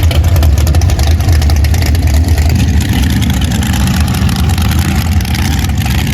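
Drag race car's engine running loud and steady as the car makes its pass down the drag strip.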